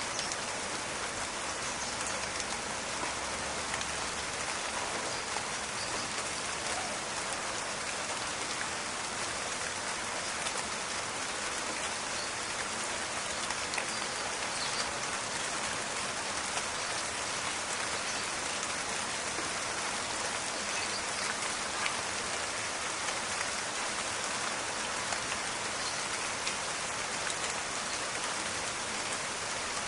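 Steady rain falling in a forest, a dense even patter of drops with small crackling ticks scattered through it.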